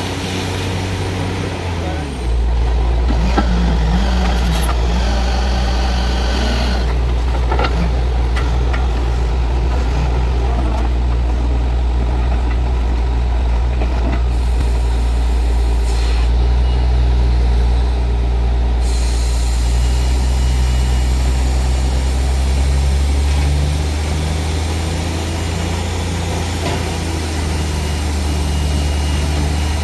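Truck-mounted borewell drilling rig running steadily with a loud, low drone; it loads up about two seconds in and eases off slightly near the end.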